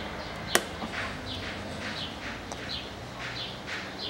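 A small bird giving short, repeated downward chirps, about two a second, with a single sharp click about half a second in.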